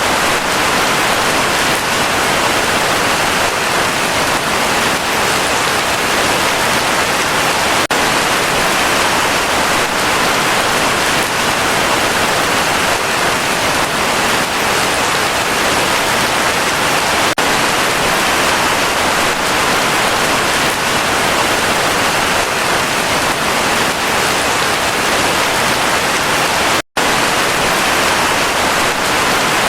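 Heavy rain falling steadily, a dense even hiss, broken by a split-second gap of silence near the end.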